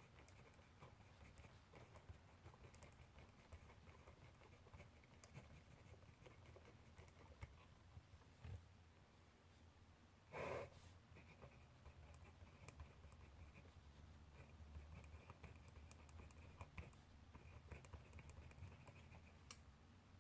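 Faint handwriting on paper: soft, scattered scratches and small taps of a pen or pencil, over a low steady room hum. About halfway through there is one short, louder sound.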